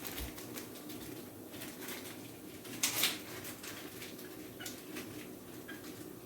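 Quiet kitchen sounds: a steady low hum with scattered light ticks, and a brief rustle about three seconds in.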